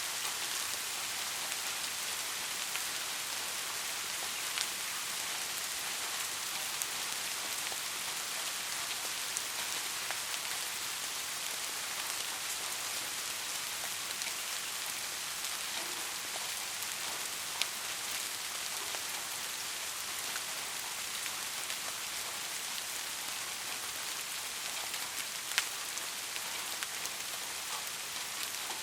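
Steady rain falling, an even hiss with a few louder single drops ticking out of it now and then.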